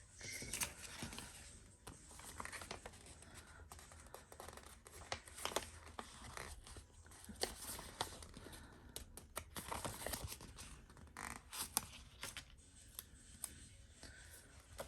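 Sticker sheets and paper being handled close up: irregular rustling and scratching with many small crackles, as stickers are peeled and pressed into a planner.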